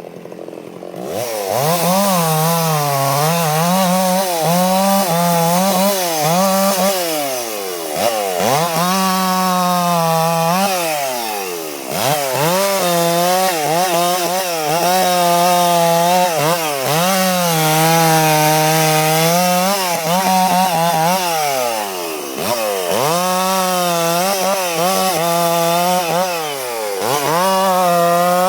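Stihl 066 two-stroke chainsaw cutting gum (eucalyptus) wood at high revs. It opens up about a second in, and its pitch sags under load and climbs back again and again as the chain bites and clears.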